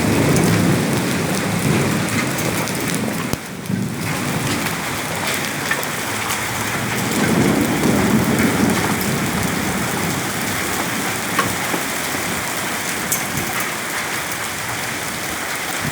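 Heavy rain and hail pelting down on surfaces in a steady, dense downpour, with rolls of thunder rumbling near the start and again around the middle, and occasional sharp ticks of hailstones striking.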